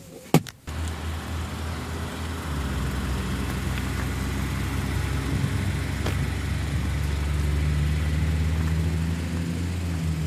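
2014 Kia Soul's four-cylinder engine idling steadily in park, heard from outside the car, growing a little louder about two seconds in. A short knock just after the start.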